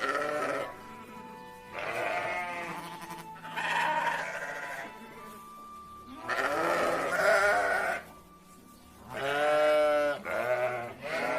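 Sheep bleating, about six separate wavering calls, over faint background music.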